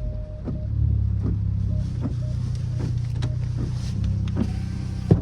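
Straight-piped Dodge Charger SXT's 3.6-litre V6 exhaust running steadily at low revs. There is a sharp click about five seconds in.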